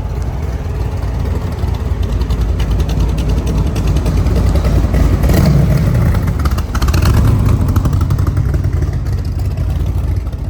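A car engine revving and passing close by: it swells to a peak about halfway through, surges again a moment later, then eases off.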